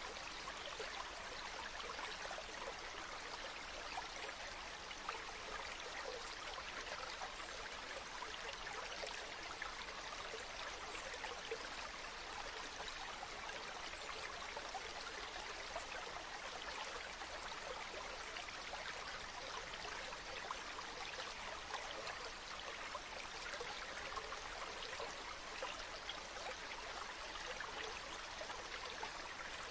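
Running water, like a small stream: a steady, even rush of water with fine trickling detail, unchanging throughout.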